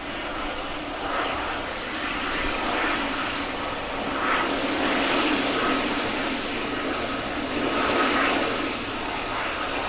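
Cargo jet's engines running: a steady rush with a thin high tone in it, swelling a little around the middle and again near the end.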